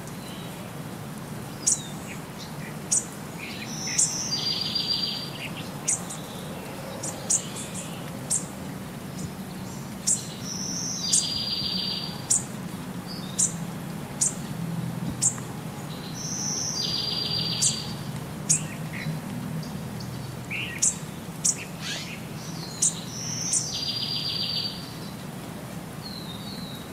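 Birds singing: short, sharp high chirps about once a second, with a longer trilled phrase that comes back about every six seconds, over a low steady hum.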